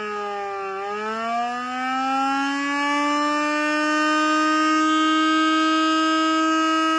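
Outdoor tornado warning siren sounding. Its pitch dips to a low point about a second in, then climbs and holds a steady high tone, growing slightly louder.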